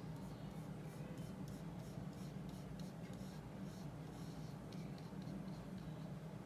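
A paintbrush stroking oil paint onto multimedia paper: repeated short brushing strokes, a few a second, over a steady low hum.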